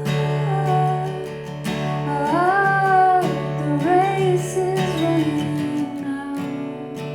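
A woman singing a slow song to strummed acoustic guitar, holding long notes that slide up into pitch.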